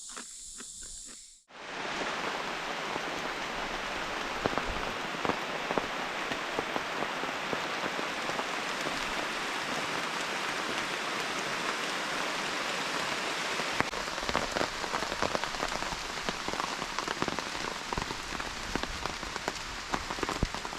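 Steady rain falling, a dense even hiss scattered with many small drop ticks, starting abruptly about a second and a half in after a brief quieter stretch.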